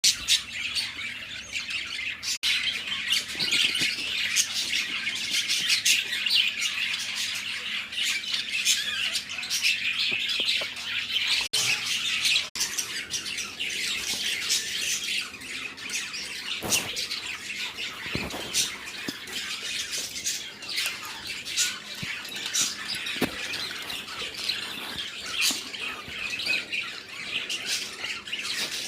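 Budgerigars chattering and squawking without a break, a dense run of many short, high calls overlapping one another.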